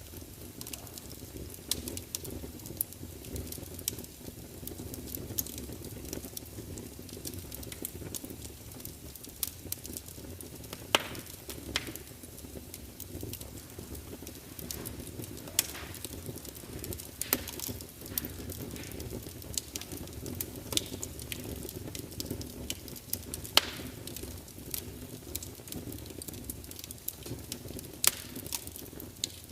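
Wood fire burning in a large fireplace: a steady low rumble of flames with irregular crackles and sharp pops from the logs, a few louder snaps scattered through.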